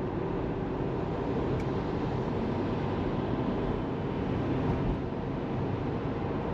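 Tesla Model 3 electric car driving, with steady road and tyre noise.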